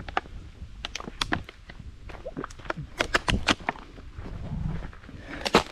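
Footsteps crunching on a dirt and rock trail: an irregular run of sharp steps, the loudest near the end, with a low wind rumble on the microphone.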